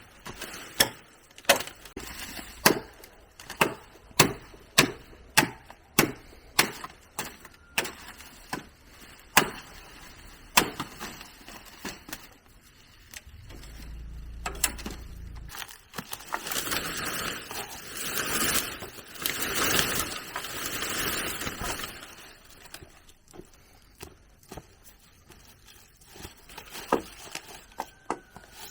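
Blade chopping bamboo in quick repeated strokes, about one and a half to two a second, for roughly ten seconds. About halfway through comes a rough rasping noise lasting about six seconds, then a few more chopping strokes near the end.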